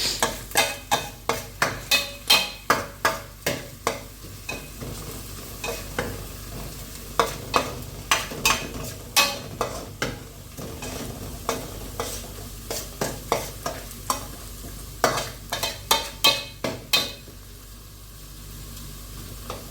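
A spoon stirring food in a cooking pan, knocking against the pan in quick runs of about two to three strikes a second over a faint sizzle. The knocking stops near the end.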